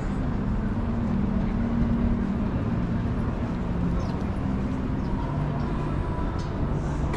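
Steady low city rumble with faint, indistinct voices in the background.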